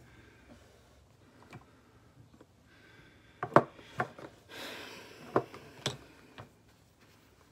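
Objects being handled: several sharp knocks and clicks about halfway through, with a brief rustle among them.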